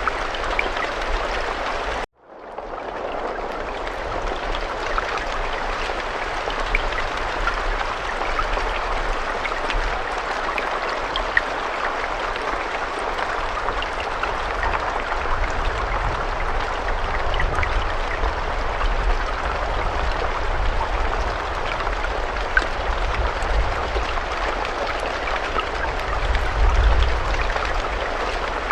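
Steady rain falling, an even hiss with scattered faint drop ticks over a low rumble. The sound cuts out for an instant about two seconds in and swells back, like a loop point in the recording.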